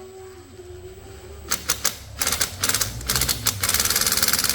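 Rapid mechanical clattering, first in a few short bursts, then running steadily, cut off suddenly at the end.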